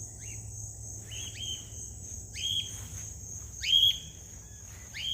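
Cockatiel contact calls, four short calls that sweep up in pitch and hold, about a second and a quarter apart, over a steady high drone of crickets.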